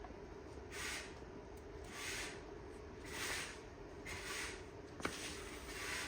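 Rhythmic rubbing strokes of a hand tool on a surface, about one stroke a second, with a single sharp click about five seconds in.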